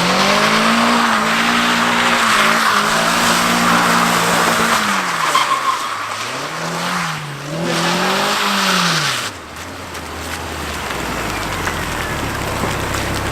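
Mazda Miata four-cylinder engine held at high revs while the tyres slide and hiss on wet pavement in a drift. About halfway the revs fall and rise a couple of times. About two-thirds through the tyre noise stops and the engine drops to idle.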